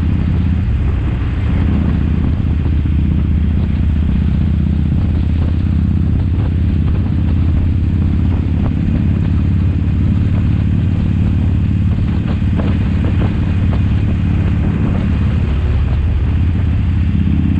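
Harley-Davidson Sportster XL1200CX's air-cooled V-twin idling steadily through a Cobra 3-inch slip-on muffler fitted with a quiet baffle.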